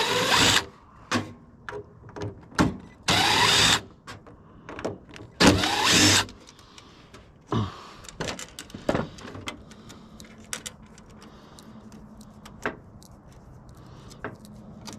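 Cordless drill spinning out screws in three short runs of about half a second to a second each, the motor's pitch rising in each, followed by scattered clicks of screws and metal parts being handled. A faint steady low hum sets in about two thirds of the way through.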